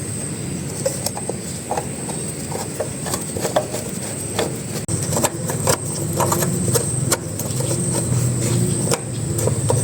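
Small Yamaha generator engine running steadily, with scattered clicks and knocks over it; it grows a little louder after about six seconds.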